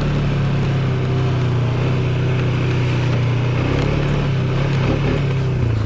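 ATV engine running at a steady speed while being ridden.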